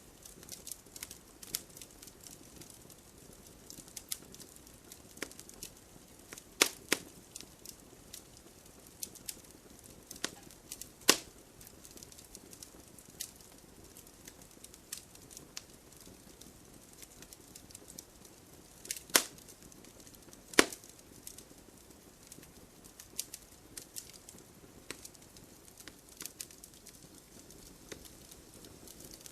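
Wood fire in an open fireplace crackling: a steady scatter of small snaps over a soft hiss, with a few louder pops, two of them close together about 19 and 20 seconds in.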